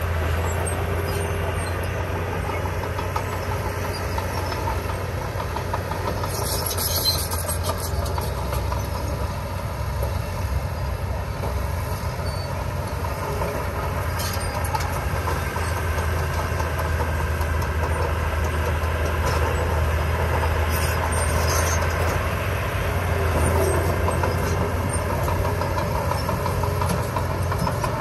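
Heavy construction machine's diesel engine running steadily with a deep hum, with short high-pitched noises about seven seconds in and again around twenty-one seconds.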